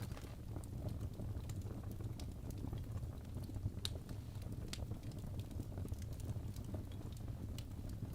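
Wood fire burning in a fireplace: a steady low rumble of flames with scattered crackles and sharp pops, the clearest pop about four seconds in.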